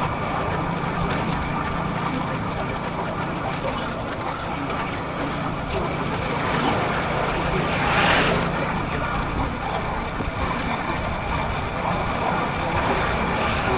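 Motorcycle running at a steady pace with wind rushing over the microphone, a low steady engine hum under the noise. A louder whoosh rises and falls about eight seconds in.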